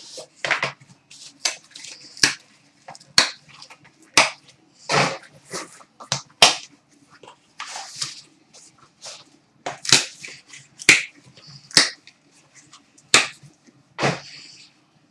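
Hockey card box and its packaging being opened and the cards handled, heard as irregular sharp clicks, snaps and short crinkling rustles.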